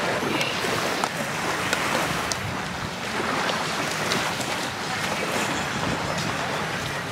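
Sea waves washing on a sandy beach, a steady rushing haze, with wind buffeting the microphone.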